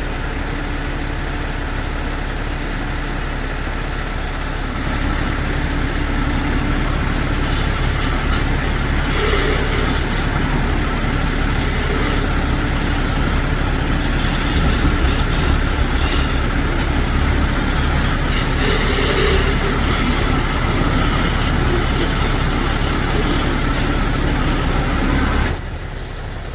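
Heavy truck engine running steadily at idle. It gets louder about five seconds in and drops off suddenly near the end.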